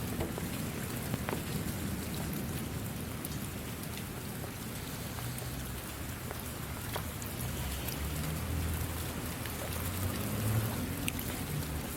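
Steady rain falling, with scattered individual drops striking surfaces. A low rumble swells from about two-thirds of the way in.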